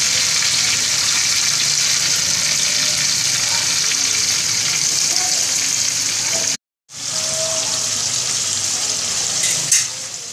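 Marinated chicken pieces sizzling steadily as they shallow-fry on one side in hot oil in a pan. The sound drops out completely for a moment about two-thirds of the way through, and there is a short sharp tick near the end.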